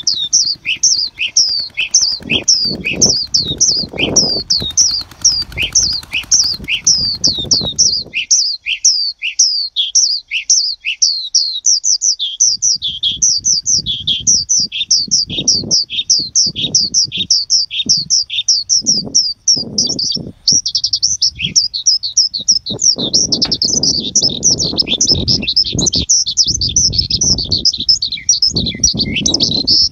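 A bird chirping rapidly and steadily, short high chirps that each drop in pitch, about three a second.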